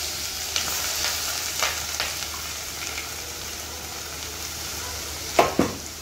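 Crushed ginger, garlic, green chilli and fennel paste sizzling in hot coconut oil in a pot: a steady frying hiss. A few light taps come from scraping the paste out of a steel bowl, and there are two sharp knocks near the end.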